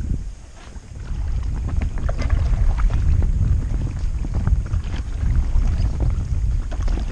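Wind buffeting the microphone in a loud, uneven low rumble, over small splashes and drips of water from paddling a kayak.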